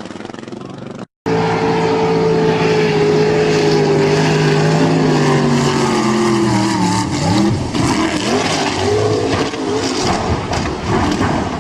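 After a brief cut about a second in, a loud engine runs with a pitched tone that slowly falls over several seconds, then turns unsteady and wavering near the end.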